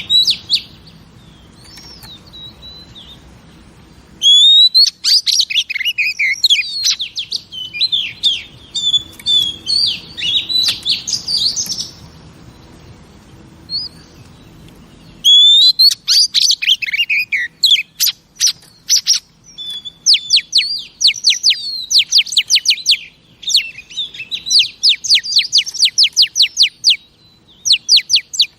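Female oriental magpie-robin singing, with loud, varied whistled phrases and trills. The song comes in two bouts a few seconds apart, and the second bout breaks into fast runs of sharp repeated notes.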